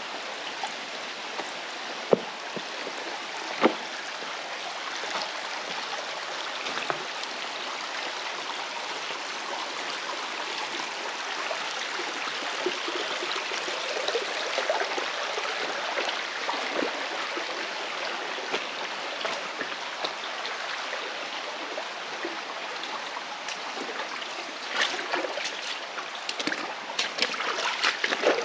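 Mountain stream rushing over rocks in a steady flow, with two sharp knocks about two and three and a half seconds in and a run of clicks near the end.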